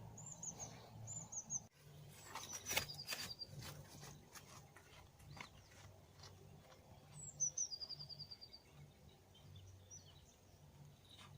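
Songbirds singing faintly: short high chirps, then two rapid trilled phrases, one about a third of the way in and one past halfway. A few light clicks of handling are scattered among them.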